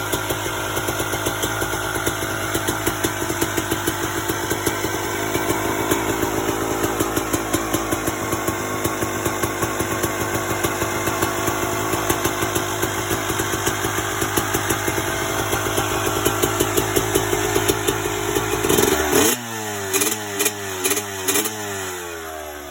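2000 Kawasaki KX250 single-cylinder two-stroke engine with an FMF Gold Series Fatty expansion-chamber pipe, idling with a steady popping beat. About nineteen seconds in it revs up, then gives four or five quick throttle blips before dropping back.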